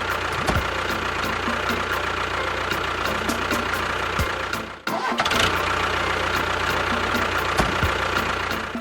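An engine running steadily. It drops out briefly about five seconds in, then picks up again.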